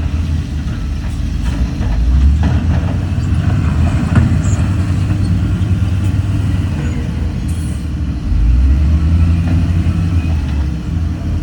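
Heavy earthmoving machinery's diesel engine running loud and low, with a few short metallic knocks in the first half.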